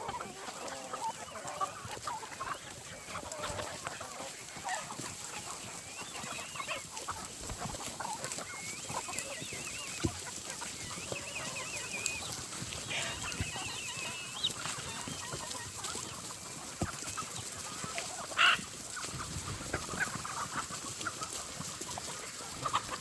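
A flock of free-ranging chickens clucking and calling softly, with a few brief louder calls, the loudest about two-thirds of the way through.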